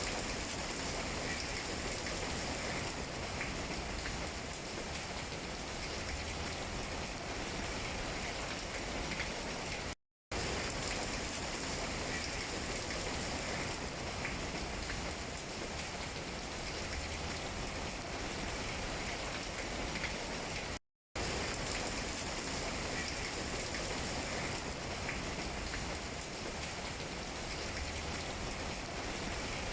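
Steady rain pattering on tree leaves, a dense even hiss. It cuts out for a split second twice, about ten seconds apart.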